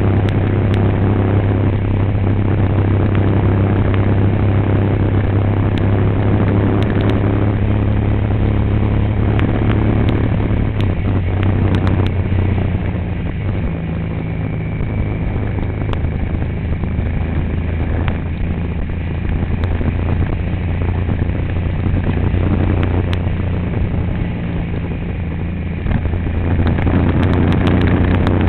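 Motor vehicle engine running steadily while driving, a constant low hum that eases off a little in the middle and picks up again near the end.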